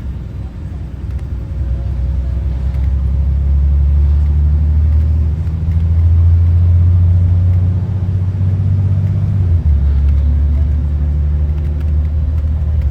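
School bus diesel engine pulling under load, a steady low drone that grows louder and rises in pitch, then drops suddenly about nine and a half seconds in, as the transmission shifts up.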